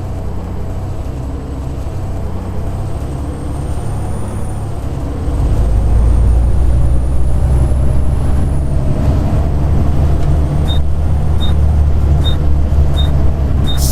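A Volvo B7TL double-decker bus's six-cylinder diesel engine, heard from inside the bus, running with a loud hoover-like whine and pulling harder about five seconds in. Near the end a faint regular ticking starts, about one and a half ticks a second, and a burst of air hiss comes right at the end.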